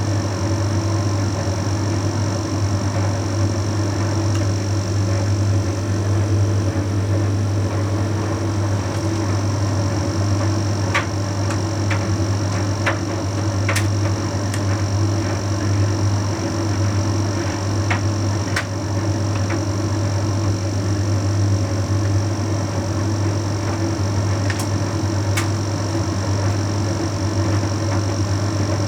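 Bosch Series 6 heat pump tumble dryer running mid-cycle: a steady low hum with a faint high whine, and a scatter of light clicks in the middle and again near the end.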